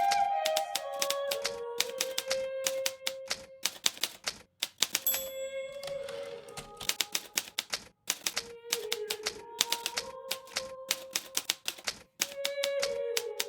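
Hermes Baby portable typewriter being typed on, a quick uneven run of sharp key strikes with a few brief pauses.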